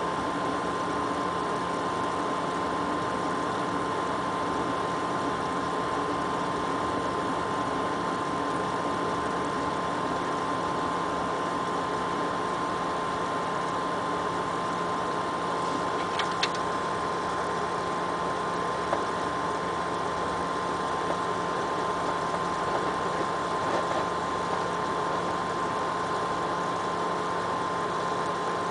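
XSPC water-cooling pump in a PC loop running with a steady humming whine, a high tone over a lower hum. The weird noise comes from the pump's tubes being connected to the wrong ports.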